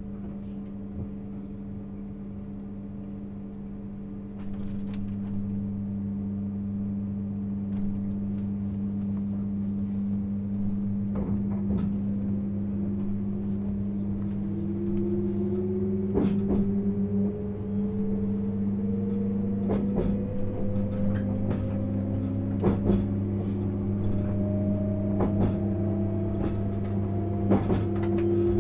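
Inside the cabin of a JR 651 series electric train gathering speed. A steady low hum runs throughout, and from about twelve seconds in a motor-and-gear whine rises steadily in pitch, with scattered wheel clicks on the rails.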